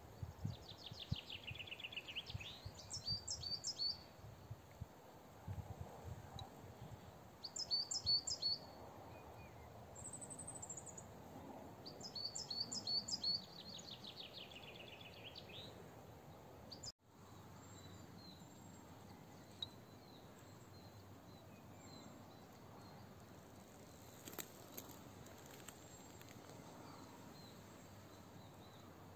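A songbird singing three short phrases of quick high notes, several seconds apart, over steady outdoor background noise. The song stops a little past the middle, leaving faint background with a few scattered faint chirps.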